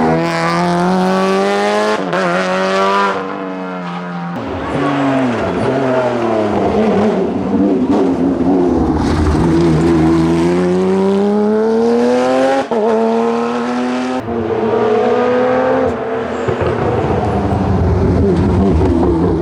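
Rally cars' engines at full throttle on a tarmac stage, heard in several edited passes: pitch climbs steadily through the revs, then drops sharply on gear changes and lifts. After the first few seconds it is a Porsche 997 GT3 Cup's flat-six.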